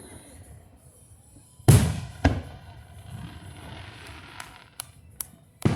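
Fireworks display: two loud booms about half a second apart, then a stretch of crackling, a few sharp smaller pops, and another loud boom near the end.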